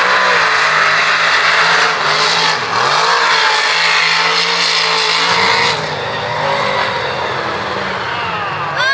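Mega mud truck's engine at high revs, held mostly steady with a brief dip about two and a half seconds in, then backing off and getting quieter after about five and a half seconds.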